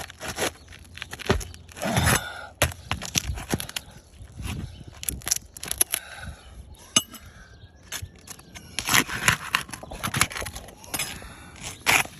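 Asphalt roof shingles being pried loose with a flat bar-type shingle removal tool: irregular cracking, crackling and scraping as the sealed tabs break free and the shingle tears.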